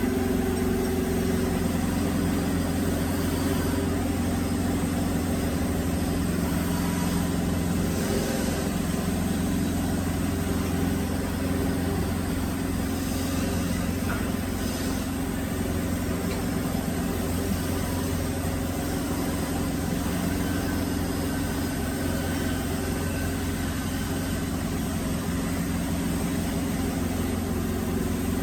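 Woodworking drilling machine running steadily with a constant low machine hum.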